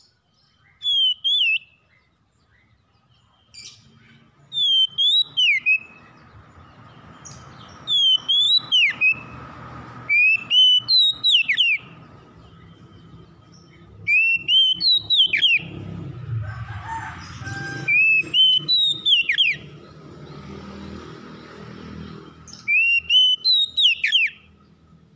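Oriental magpie-robin (kacer) singing loud, clear whistled phrases, each note sliding up and then sharply down, delivered in quick clusters every few seconds. A faint low rumble sits beneath the song through most of it.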